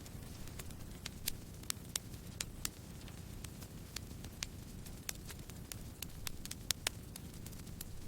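Campfire burning: a steady low rumble of flames under irregular sharp pops and crackles from the burning wood, a few of them louder than the rest.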